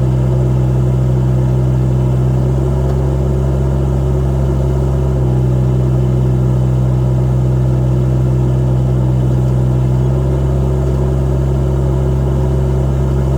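Kubota D902 three-cylinder diesel engine of a JT5200 mini excavator running steadily at a constant speed, its note shifting slightly a few times as the load changes.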